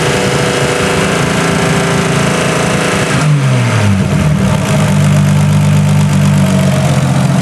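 Freshly rebuilt Nissan RB25DET turbocharged straight-six engine running, held at a raised speed, then its revs drop about three seconds in and it settles into a steady run.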